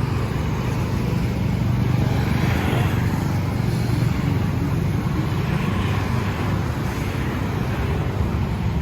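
Steady road traffic noise with vehicles going by; the sound swells softly a couple of times.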